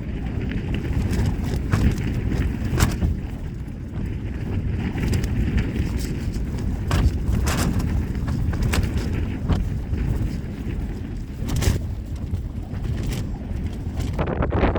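Gale-force wind buffeting a Vango Starav tent: a heavy rumble of wind on the microphone, with the flysheet snapping sharply at irregular moments, about a dozen times.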